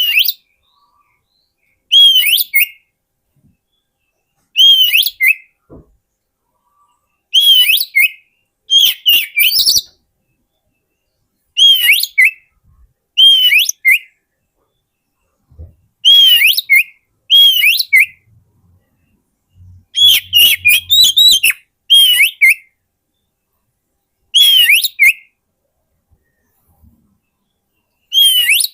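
Oriental magpie-robin (kacer) singing short, loud whistled phrases, about one every two seconds with silent gaps between. Each phrase opens with a clear note that rises and falls, followed by quick higher notes.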